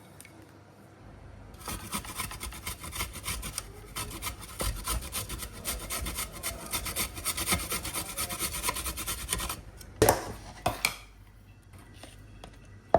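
Fast, steady rasping strokes of a kitchen tool working food for about eight seconds, then two loud knocks about a second apart.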